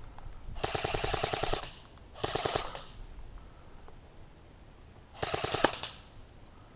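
Airsoft electric rifle firing three full-auto bursts of rapid, evenly spaced shots: a burst of about a second, then two short bursts.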